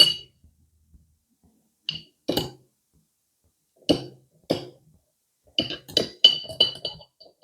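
Tableware clinking: separate sharp, ringing clinks of dishes or utensils struck together, then a quick run of clinks in the last couple of seconds.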